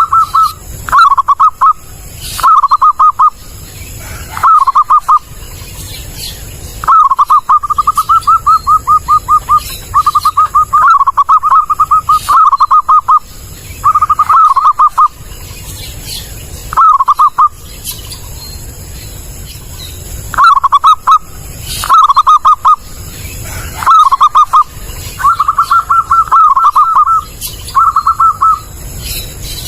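Zebra dove (perkutut) singing, used as lure calls: loud phrases of rapid staccato coos repeated with short pauses. Most phrases last about a second, and a few run on for two to three seconds.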